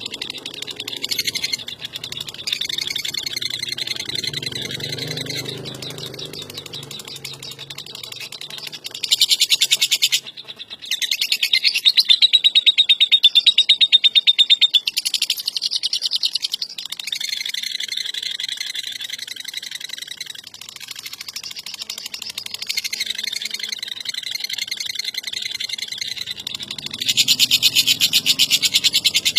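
Lovebird ngekek: a long, rapid, high-pitched chattering trill delivered in extended bouts, loudest from about nine seconds in and again near the end.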